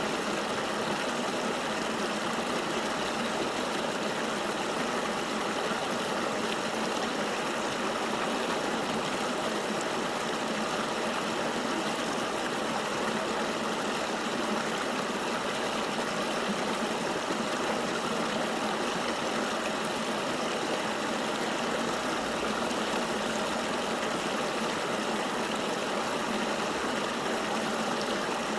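Flowing river water making a steady, even rushing noise with no change in level.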